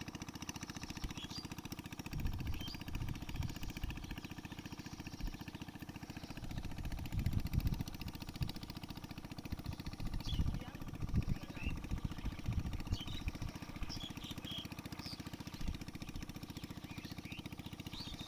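A small engine running steadily at idle, with louder low rumbles coming and going every few seconds. Birds chirp now and then over it.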